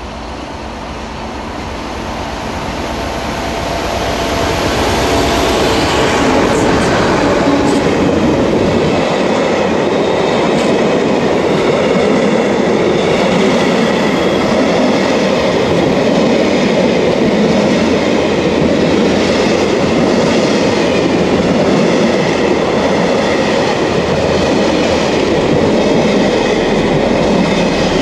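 A freight train passing close by. The diesel locomotive at its head grows louder as it approaches over the first few seconds. Then a long rake of tank wagons rolls past, a steady rumble with a regular clatter of wheels over the rail joints.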